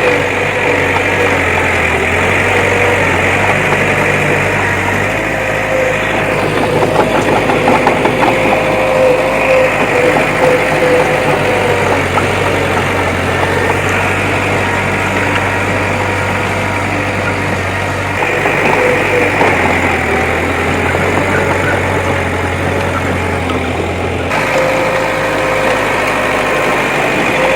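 Diesel engine of a heavy earthmoving machine running steadily, its low note shifting a little every few seconds.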